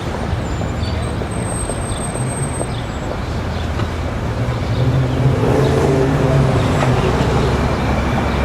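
Busy city street ambience: steady traffic noise with a crowd's voices in the background. About halfway through, a motor vehicle's engine grows louder as it passes close.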